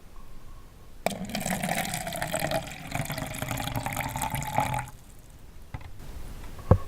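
Water running, starting suddenly about a second in and stopping after about four seconds, then a single sharp knock near the end.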